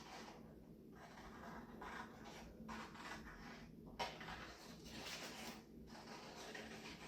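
Scissors cutting around a paper circle: faint, uneven stretches of scraping and rustling with short pauses between them, and one sharp click about four seconds in.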